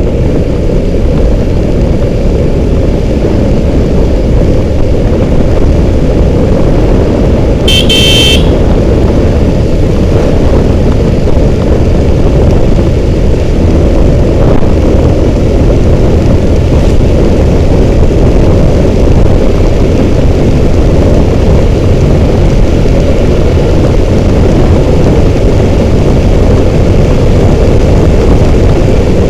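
Motorcycle riding at highway speed, with loud, steady wind rush and engine rumble on the microphone. A vehicle horn honks once, briefly, about eight seconds in.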